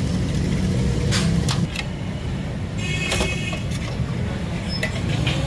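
Workshop sounds during a motorbike front fork repair: a low motor hum that drops away about a second and a half in, with scattered clinks and knocks of metal tools and a brief ringing squeal about three seconds in.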